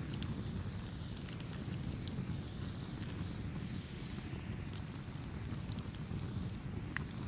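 Campfire crackling: scattered sharp pops and snaps from the burning wood over a steady low rumble of the flames, with one louder pop near the end.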